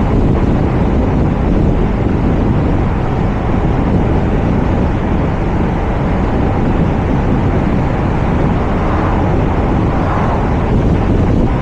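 Steady wind rush buffeting a roof-mounted camera's microphone on a moving car, mixed with tyre and road noise.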